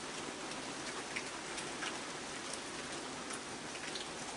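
Steady rain falling, with a few scattered drops ticking.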